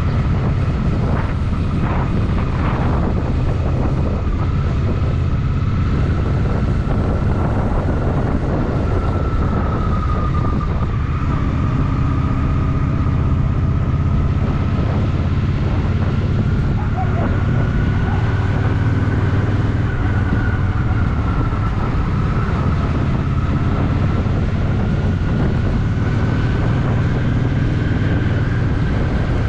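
Honda Shadow VT750's V-twin engine running steadily while riding, a constant low rumble with no sharp revs, and a thin whine above it that slowly wavers in pitch.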